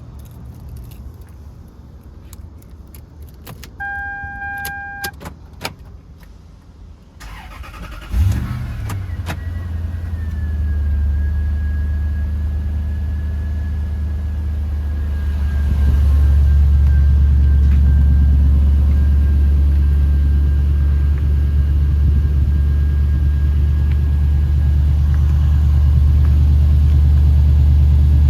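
Key clicks and a short beep, then about eight seconds in the 1998 Toyota Land Cruiser's engine cranks briefly and catches on a cold start. It settles into a steady fast idle with a thin whine above it, and grows louder about halfway through.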